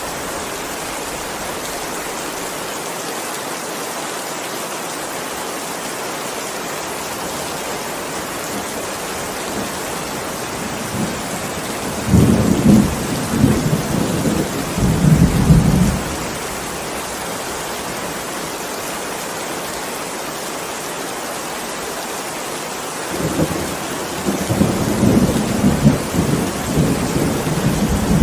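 Heavy rain falling steadily, with two long rolls of thunder: one about 12 seconds in lasting some four seconds, and another starting near the end.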